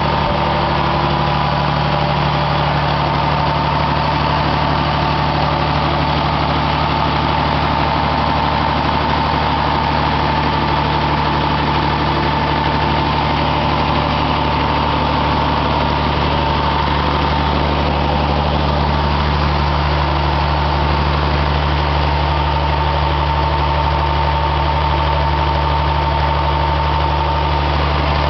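Engine fuelled entirely by biogas, running at a steady speed with an even low hum and a thin steady whine above it.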